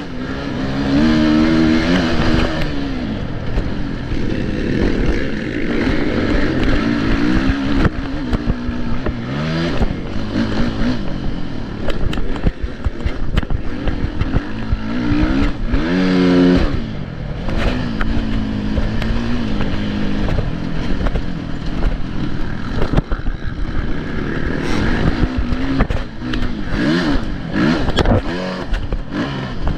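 Motocross bike engines racing, revving up and falling away again and again with the pitch repeatedly rising and dropping, at times more than one engine at once.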